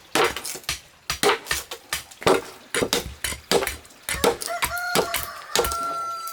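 A rooster crowing once, a long held call starting past the middle, over a steady run of sharp knocks at about two to three a second.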